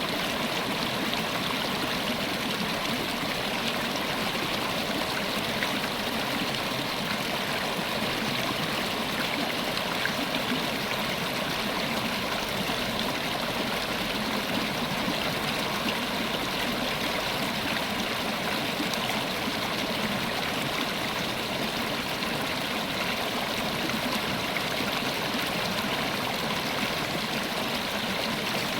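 River water running steadily over rocks: an even rushing and burbling that does not change.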